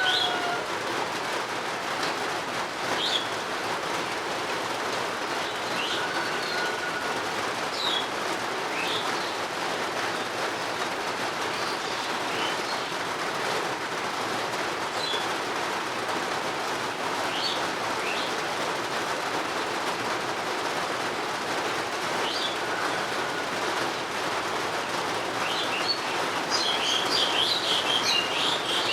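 Steady rainfall with bird chirps every few seconds. The birds' chirping gets busier and denser near the end.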